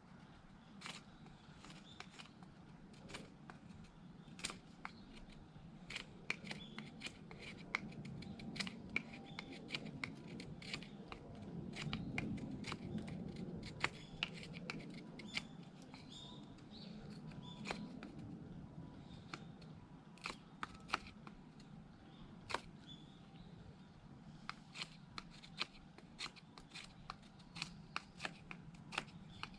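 Mora knife shaving thin curls off a wooden stick to make a feather stick: a long run of short, sharp scraping strokes at an irregular pace. A low rustle swells under them around the middle.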